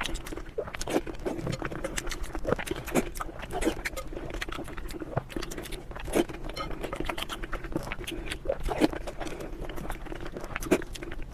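Close-up chewing and eating sounds: irregular wet smacks and clicks of a mouth working on food, several a second, with a faint steady hum underneath.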